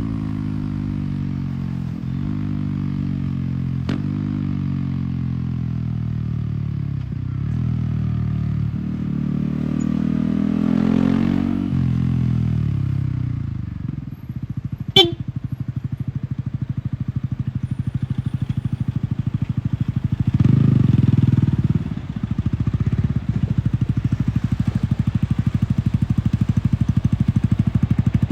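Yamaha R15 single-cylinder motorcycle engine through an MTG aftermarket exhaust, pulling hard with a brief cut about every two seconds as the quickshifter changes gear, then easing off with the pitch falling. It then runs at low revs with an even putter, opening up briefly about three quarters of the way through; a single sharp click sounds about halfway.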